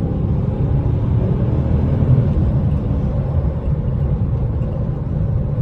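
Interior drive noise of a Dodge Charger R/T under way: a steady low V8 engine and road rumble heard from inside the cabin, the engine note climbing a little in the first couple of seconds.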